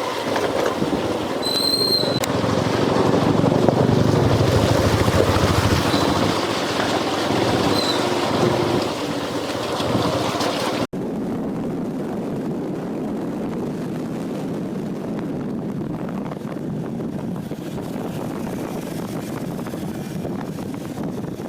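Road and wind noise from a motorcycle ride, with wind buffeting the microphone and a few short high beeps in the first half. About halfway through the sound cuts off abruptly and switches to a steadier, slightly quieter rush of wind.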